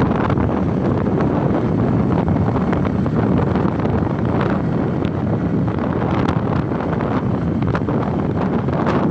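Wind rushing over the microphone on a moving motorcycle: a loud, steady rumble with no breaks.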